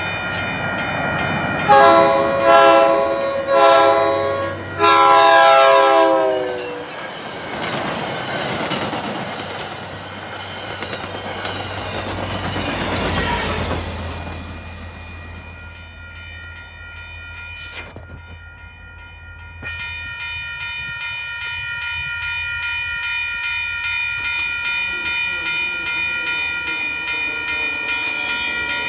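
MBTA commuter-rail diesel locomotive sounding its horn at the grade crossing in four blasts, the last held longest, then the train running past over the crossing with a rumble and wheel clatter. A railroad crossing-signal bell rings steadily throughout and stands out clearly once the train has gone.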